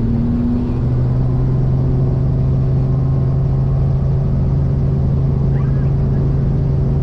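Helicopter running steadily: a constant loud drone from the engine and rotor, with a strong low hum and several fainter steady tones above it.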